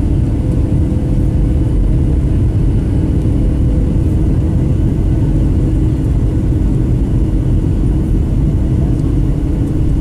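Steady, loud cabin noise of a Boeing 737-800 with CFM56-7B engines, heard from inside the cabin: an even rumble of engines and airflow with a faint steady hum over it.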